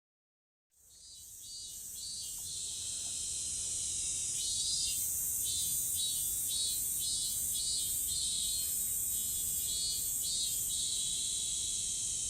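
A chorus of summer insects shrilling: a steady high hiss with pulsed phrases repeating about once a second over it. It fades in about a second in.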